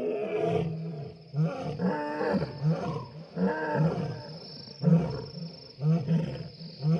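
Lion roaring in a bout of repeated deep calls, about a dozen in quick succession, with a thin steady high whine underneath.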